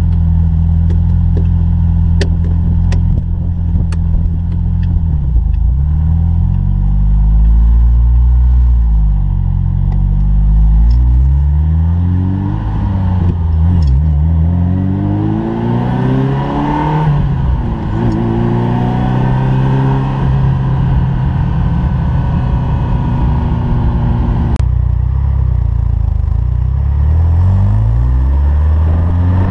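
The 3.2-litre V8 of a 1988 Ferrari Mondial 3.2 running, its revs rising and falling again and again. There are a few sharp clicks in the first seconds. A sudden click comes near the end, after which the engine note turns duller.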